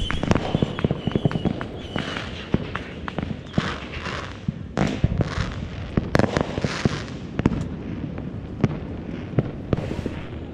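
Consumer fireworks going off: an irregular run of sharp cracks and pops, several a second, with a few hissing bursts in the middle.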